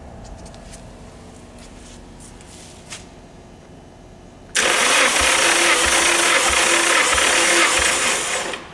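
Nissan SR20DET engine cranked over by its starter for about four seconds during a compression test, a loud steady whir with faint regular pulses. Before it, only faint background noise and a few light clicks.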